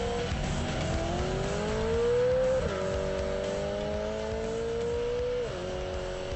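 BMW E92 M3's V8 running through an Eisenmann Inconel exhaust, accelerating through the gears. The engine note climbs, drops sharply at an upshift about two and a half seconds in, climbs again and drops at a second upshift near the end.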